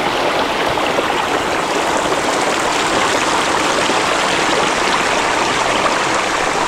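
Waterfall and river water falling and rushing, a steady loud wash with no change in level.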